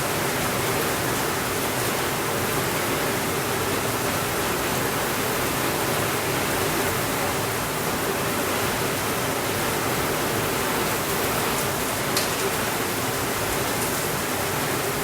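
Steady rainfall, an even unbroken hiss, with an occasional faint click.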